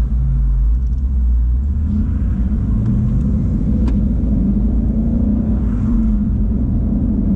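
2017 Mustang GT's 5.0 Coyote V8 with its stock exhaust, running under way and heard from inside the cabin. The engine note climbs a little about a second in, then holds steady.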